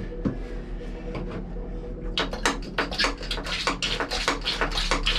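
Hand-operated oil extraction pump being worked to draw old oil out of a narrowboat engine's sump: a few scattered clicks, then from about two seconds in a fast, even run of pumping strokes, several a second.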